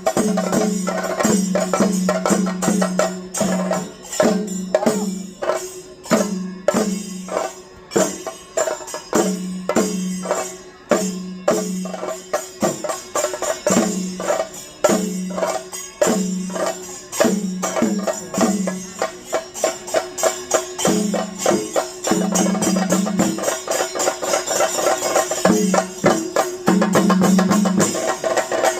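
Fast traditional Kerala percussion music: dense, rapid drum strokes over a repeating deeper drum note, with bright jingling strokes on top, running at a steady loud level.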